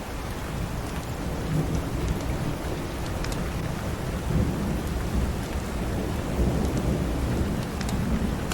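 Steady rain with a low, rolling rumble of thunder that swells from about a second in. A few faint crackles from a wood fire sit on top.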